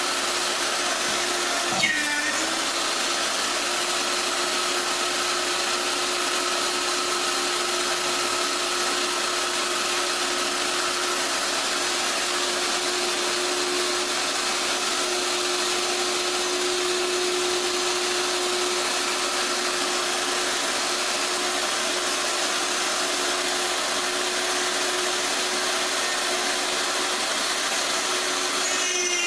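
Electric jigsaw running steadily while cutting through the tabletop, its motor pitch dipping briefly under load about two seconds in and again at the end, with a single knock about two seconds in.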